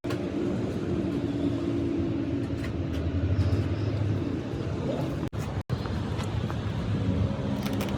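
An engine running steadily, with a low hum and a noisy rattle over it. The sound drops out for an instant twice, a little past halfway.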